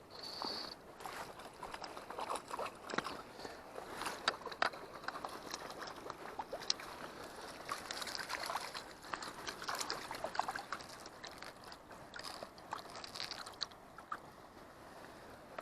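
Water sloshing and splashing in a shallow stream, with many small irregular splashes and crunches.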